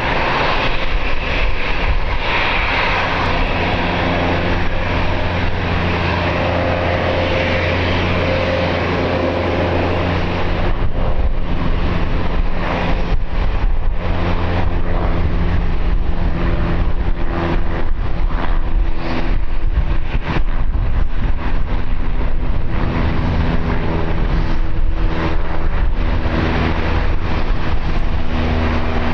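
Airliner engines running steadily as a plane comes in to land, with several steady engine tones. From about ten seconds in, wind gusts buffet the microphone.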